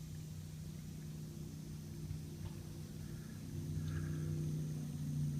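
A faint, steady low hum of a motor running in the distance.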